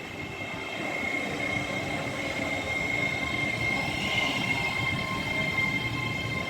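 Avanti West Coast Class 805 Evero train pulling into the platform: a steady high-pitched whine over a low rumble of running gear.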